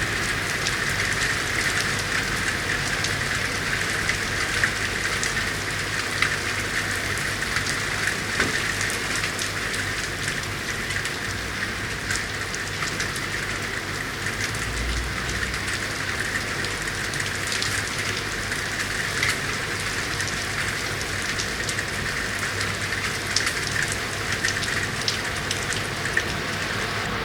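Steady rain falling on a city street, an even hiss dotted with small drop ticks, over a faint low hum.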